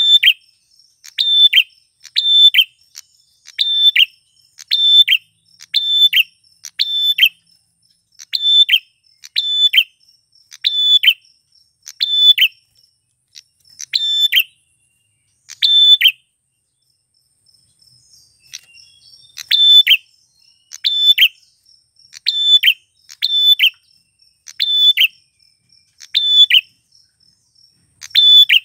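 Male prenjak klawu (a prinia) calling: a sharp, high chirp repeated about once a second. Past the middle there is a pause of a few seconds, then the calling starts again.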